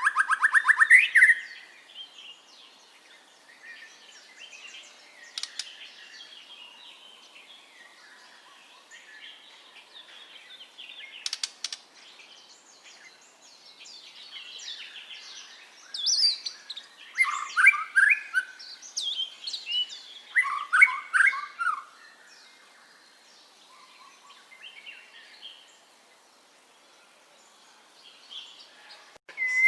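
White-rumped shama singing: loud, varied whistled phrases at the start and again for several seconds past the middle, with quieter twittering between them and a short pause near the end.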